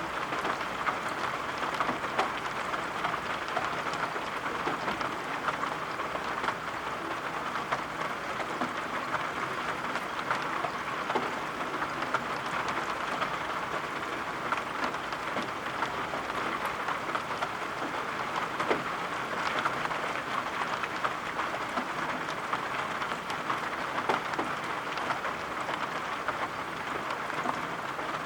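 Steady rain, with scattered small taps of drops landing.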